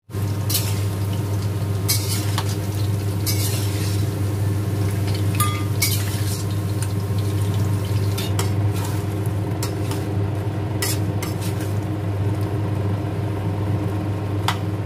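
Battered chicken pieces frying in hot oil in a wok, with a metal spatula stirring and scraping against the pan and knocking on it now and then. A steady low hum runs underneath.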